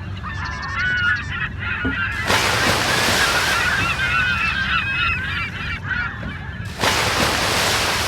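A large flock of waterfowl honking and calling over one another without pause, over the steady low hum of a boat engine. A loud rushing noise comes in about two seconds in and again near the end.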